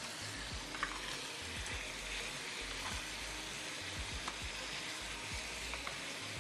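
Strips of chicken breast sizzling in hot oil in a stainless steel pan, steady frying hiss, while a spoon stirs them, with a few light taps of the spoon.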